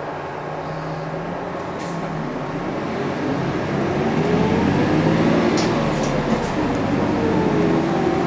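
Cabin sound of a UD Space Runner RA non-step city bus under way, its diesel engine and drivetrain running. About three seconds in, the bus gets louder and its whine rises and falls in pitch as it picks up speed. A few light clicks sound over it.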